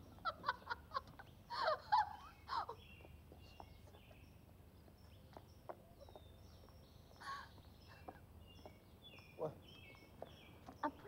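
Birds chirping and calling in quick short notes, busiest and loudest in the first three seconds, then sparser, over a faint steady background hum.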